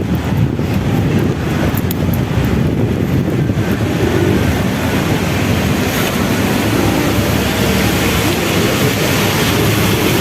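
Traffic noise on wet streets, with a steady hiss that grows after about four seconds, and wind rumbling on the microphone.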